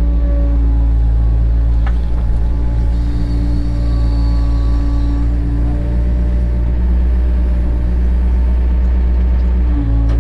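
Cat 307 excavator's diesel engine running steadily under work, with tones from the machine that come and go as it works. A short click about two seconds in.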